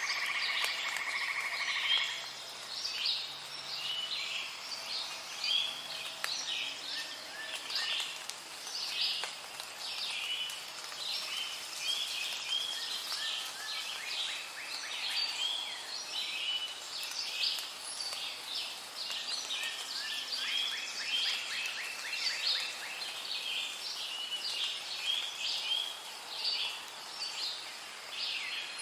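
Rainforest ambience recording: a dense chorus of many birds chirping and whistling over a faint steady hiss, starting abruptly.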